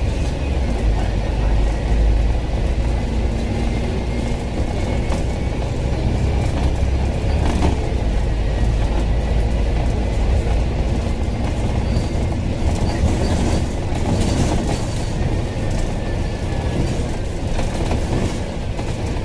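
Ride noise inside a moving Hong Kong bus: a steady low engine and road rumble, with scattered clicks and rattles from the body.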